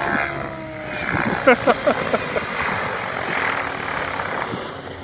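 Large radio-controlled helicopter flying: steady rotor and motor noise, with a tone that drops slightly in the first second.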